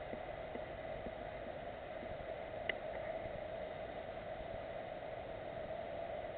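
Steady hiss of background noise, with one faint short click a little under halfway through.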